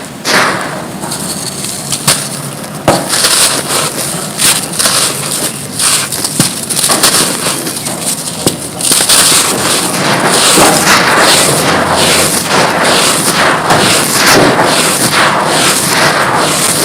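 Dry, gritty mud chunks being crumbled and crushed, giving a dense crackle of small cracks and crunches. The crackle grows thicker and more continuous about halfway through.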